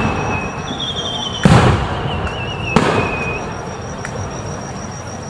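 Aerial fireworks shells bursting: two loud bangs about a second and a half apart, each followed by a fading rumble, with a wavering high whistle between them.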